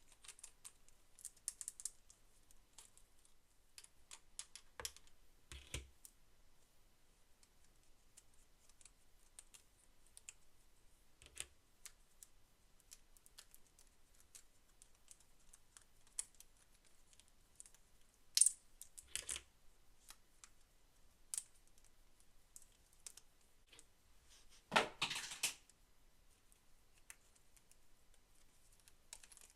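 Hands handling toys and their plastic packaging: scattered light clicks and taps, a sharp click about two-thirds of the way through, and a louder rustle a few seconds before the end.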